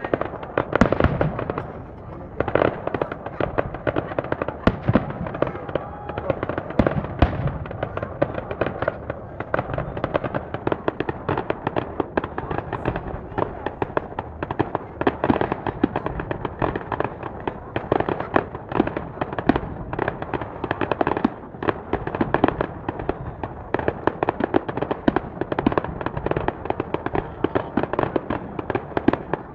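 Fireworks display in a continuous barrage: dense, rapid bangs and crackling with no let-up.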